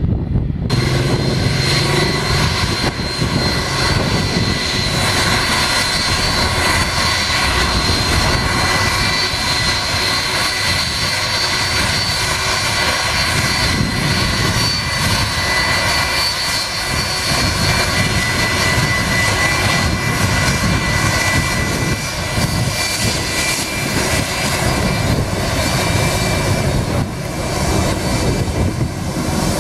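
Jet airliner's turbofan engines running at high power, a loud, steady rush of noise with a high steady whine over it.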